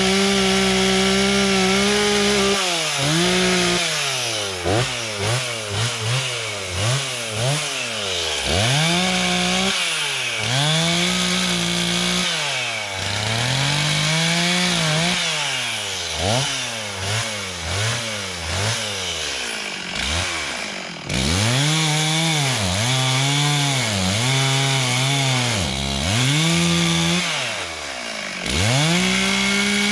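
Stihl two-stroke chainsaw cutting up a storm-felled tree: the engine runs at high speed, then its revs drop and climb back again and again as the throttle is eased and opened between and during cuts.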